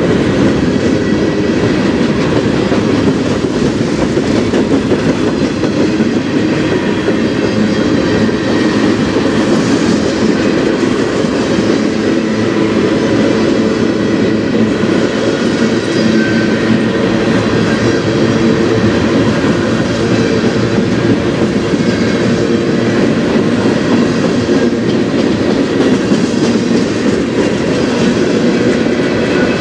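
Freight cars of a mixed freight train (covered hoppers, tank cars and a coil car) rolling past close by: a loud, steady noise of steel wheels running on the rails.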